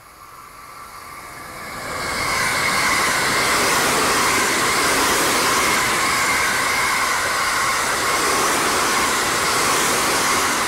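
A train passing close by at speed: it grows louder over the first two seconds, then runs as a steady rush of wheels on rail with a bright ringing tone over it.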